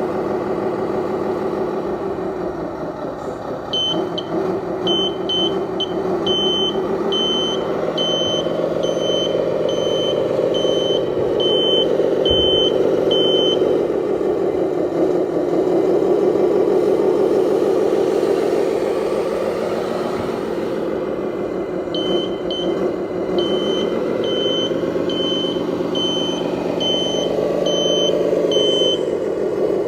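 RC Scania dump truck's engine sound, running steadily and rising and falling slightly in pitch. A high reversing beeper sounds about twice a second between about 4 and 13 seconds in, and again from about 22 seconds in until near the end.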